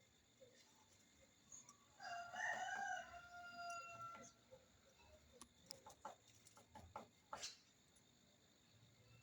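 A single drawn-out bird call of about two seconds, faint, with a few sharp ticks and taps scattered after it.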